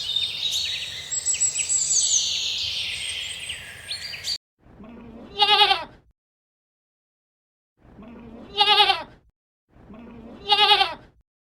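A dense, high twittering chorus that cuts off suddenly about four seconds in, followed by a goat bleating three times, each bleat about a second long with a quavering, wavering pitch.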